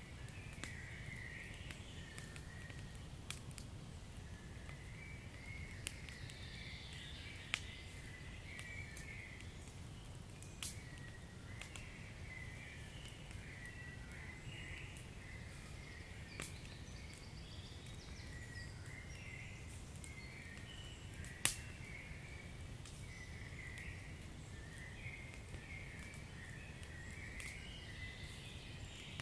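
Wood fire crackling, with scattered sharp pops over a steady low rumble; one pop about two-thirds of the way through is the loudest. High, warbling chirps keep up alongside it.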